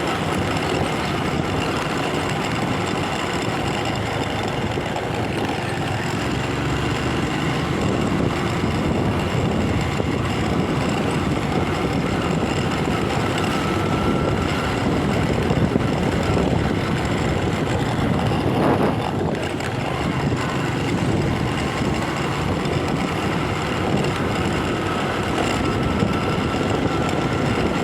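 Motorcycle engine running while riding, mixed with steady wind and road noise on the phone's microphone.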